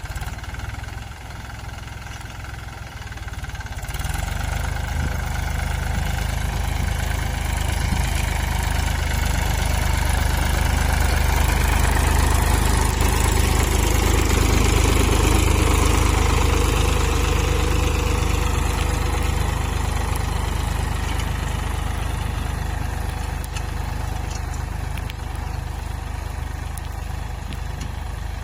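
Tractor engine running with a steady low rumble, growing louder from about four seconds in, loudest in the middle, then easing off slowly.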